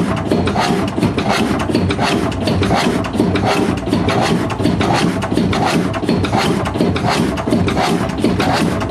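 Ruston Hornsby 5XHR five-cylinder diesel engine running with a fast, even clatter, several knocks a second, on its first run since 1984 after its air and fuel problems were fixed.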